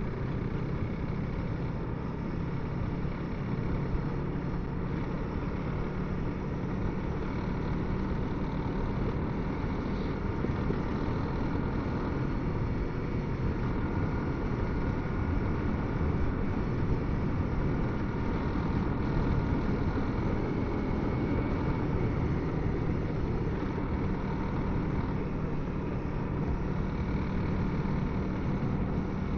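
Honda CRF300L's single-cylinder engine running at a steady cruise with wind rush, heard through a helmet Bluetooth intercom microphone.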